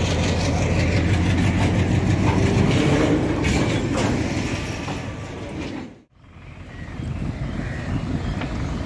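Railway train noise: a steady low hum around the standing tank wagons. It cuts out abruptly about six seconds in, then picks up again as a steady rumble beside an electric local train.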